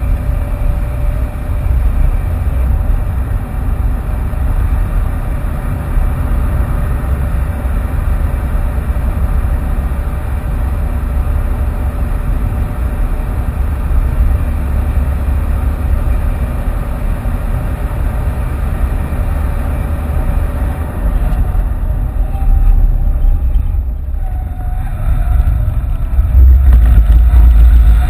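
Inside the cabin of a Ford Fiesta 1.6 TDCi at speed on a race track: the four-cylinder turbodiesel engine pulls under load over a heavy low rumble of road and tyre noise. The sound eases briefly about three-quarters of the way through, then grows louder near the end.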